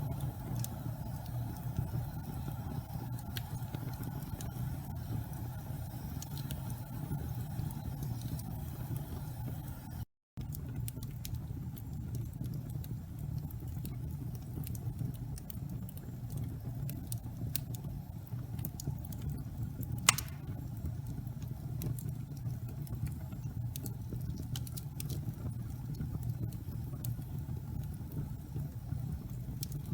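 Wood fire burning in a fireplace: a steady low rumble with scattered faint crackles and one sharp pop about twenty seconds in. The sound cuts out for a split second near ten seconds in.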